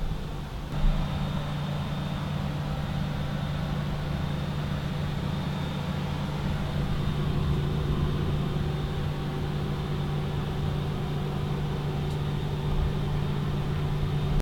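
A machine running steadily: an even, low motor hum with a hiss over it, settling in about a second in after a brief knock.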